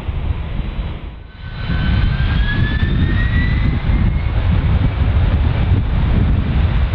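Jet airliner engines running with a loud low rumble. After a brief dip about a second in, a whine rises in pitch as the engines spool up.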